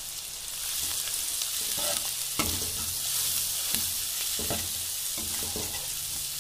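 Chopped onions and green chillies with turmeric sizzling in hot mustard oil in a kadhai, with a steady hiss. A metal spoon stirs the mixture, knocking and scraping against the pan several times from a couple of seconds in.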